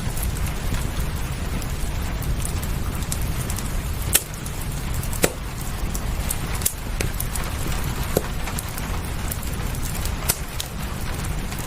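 Fireplace crackling over a steady wash of rain, with a handful of sharp pops from the fire spaced a second or two apart.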